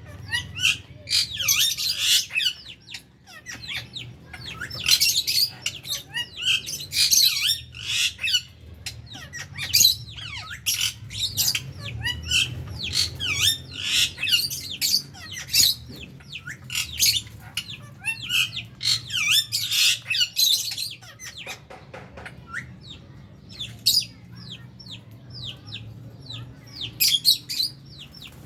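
A flock of lovebirds, with budgies among them, calling constantly in rapid, shrill chirps and squawks that swell into louder bursts every few seconds, over a steady low hum.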